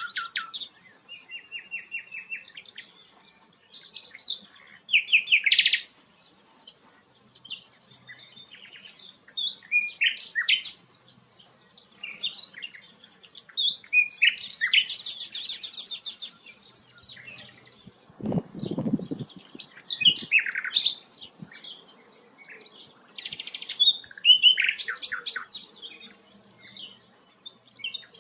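Sikatan londo, a flycatcher, singing in bursts of fast, high chirps and trills, a phrase every few seconds, with a short low thud a little past the middle.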